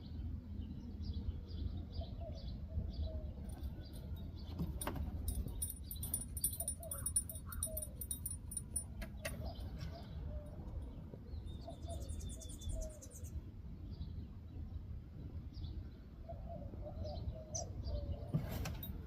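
Small birds chirping and calling in short repeated notes, with a quick run of very high chirps a little past the middle. A steady low rumble runs underneath, and two sharp clicks come about five and nine seconds in.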